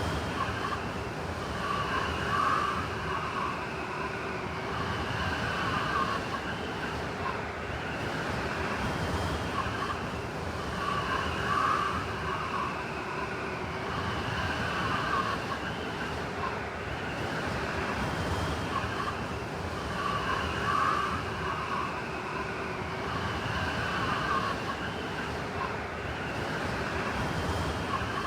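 Blizzard wind howling without a break, with high whistling tones that swell and fade in gusts about every nine seconds.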